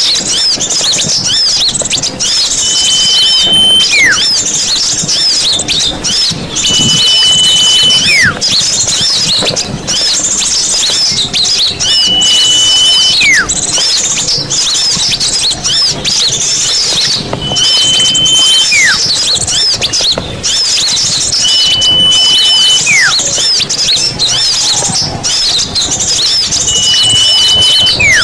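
A bird-lure recording of a dense chorus of many small birds, with rapid high chirps and squeaks all overlapping. Over it a whistled call repeats about every four to five seconds, a steady high note held for about a second and then sliding sharply down in pitch.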